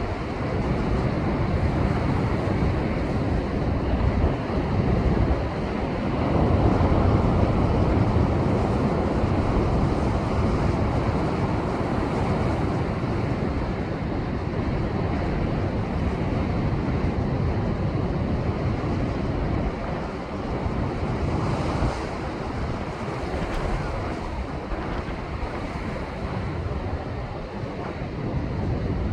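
Rough typhoon swell surging and breaking against shoreline rocks in a continuous wash of surf, heaviest about six to ten seconds in. Wind buffets the microphone.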